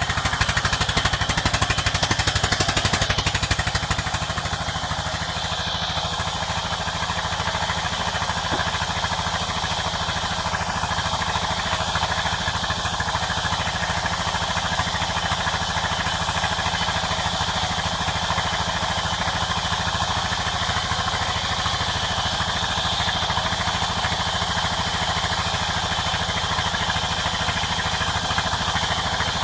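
Sawmill machinery running steadily with a fast, even engine-like pulsing, a little louder for the first few seconds and then constant.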